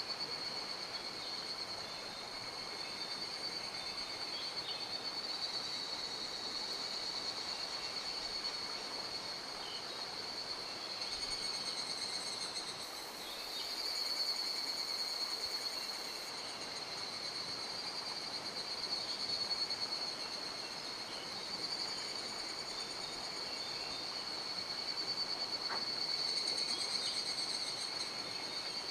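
Mountain stream flowing, with a steady high-pitched insect chirr over the running water.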